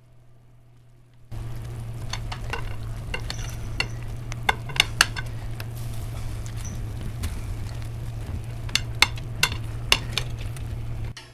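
Hot roasted chicken pieces sizzling in a baking dish as they are flipped, with sharp clicks of a utensil against the dish over a steady low hum. The sound starts abruptly about a second in and cuts off near the end.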